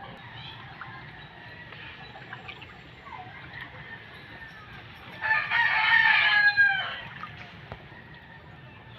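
A rooster crows once, about five seconds in, a loud call of under two seconds that drops in pitch at its end, over a low steady background.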